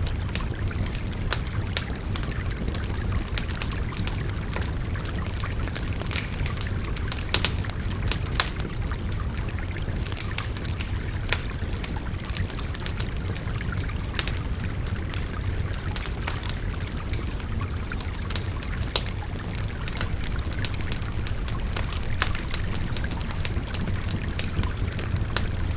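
Wood fire crackling, with frequent irregular sharp pops, over the steady rush of a babbling river.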